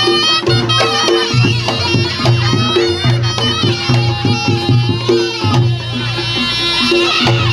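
Reog accompaniment music: a reed shawm (slompret) plays a wavering melody over a steadily repeating pattern of low gong strokes.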